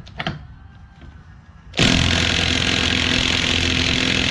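Heavy-duty impact wrench starting about two seconds in and hammering steadily on a 32 mm front axle nut that is seized on with high torque.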